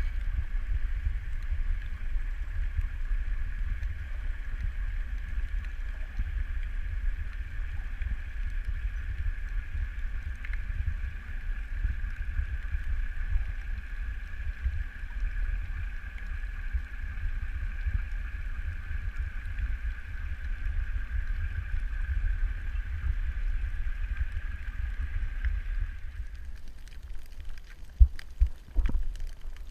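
Underwater sound: a low rumble of moving water with the steady whine of a boat's engine and propeller carried through the water. The whine stops a few seconds before the end, and a few sharp knocks follow.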